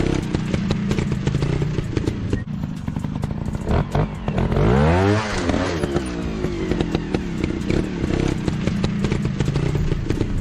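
Dirt bike engine running with a rapid, clattery beat. About four seconds in it revs up sharply and falls back again.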